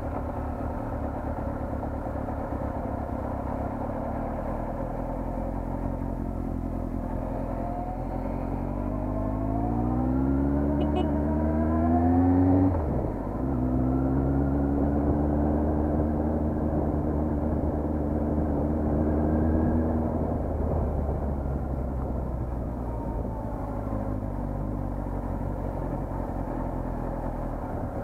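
Vehicle engine over a steady low road and wind rumble. About eight seconds in it accelerates with rising pitch and breaks off briefly near the middle, like a gear change. It then holds a steady higher note for several seconds before easing off back into the rumble.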